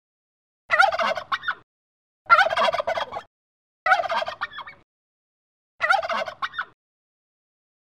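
Turkey toms gobbling: four separate rapid, warbling gobbles of about a second each, a second or so apart.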